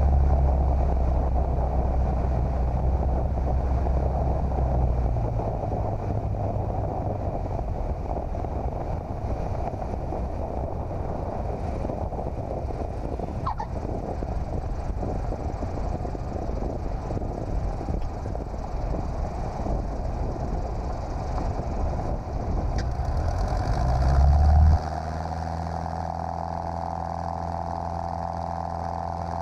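Cessna 150's four-cylinder O-200 engine heard from inside the cockpit: running at high power for the first few seconds, then throttled back, leaving a rough rumble of airflow and idling engine. Near the end the engine rises again briefly before the sound cuts suddenly to a steady engine drone.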